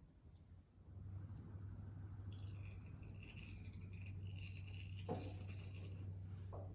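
Engine oil dribbling from the mower's drain into an oil pan, the flow slowed to a dribble near the end of draining. A low steady hum starts about a second in and runs under it.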